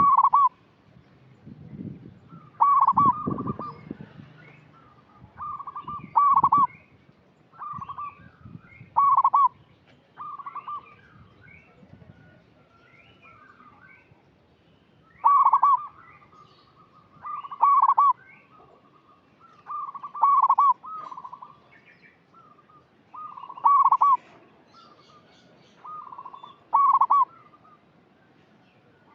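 Zebra dove (perkutut) cooing: a series of short, loud, rolling coo phrases every second or two, with a pause of a few seconds partway through. Faint chirps from other small birds come in between.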